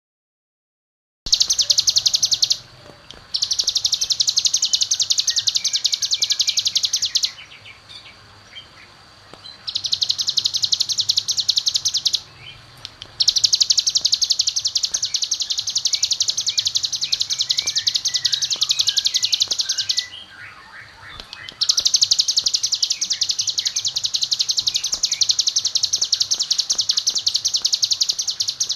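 A ciblek (bar-winged prinia) sings its rapid, high 'ngebren' trill in long unbroken runs of several seconds, with short pauses between them. In the pauses, fainter scattered chirps of other birds can be heard.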